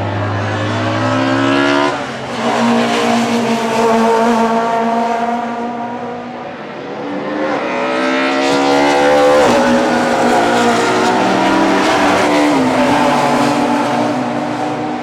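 Classic DTM touring-car race engines accelerating hard past the grandstand, their pitch climbing and falling back at each upshift, in two main swells, about two seconds in and again from about seven seconds.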